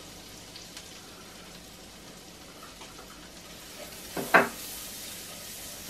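Finely diced shallots sizzling gently in foaming butter in a frying pan while being stirred with a spatula. A short, louder knock comes about four seconds in.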